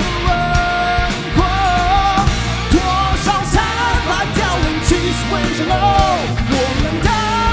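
Live rock band playing a loud passage, with heavy drums and bass under a pitched melody line that bends and slides, and singing.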